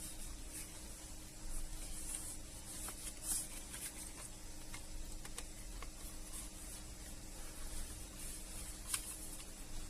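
Faint rubbing and light clicks of objects being handled, over a steady low hum.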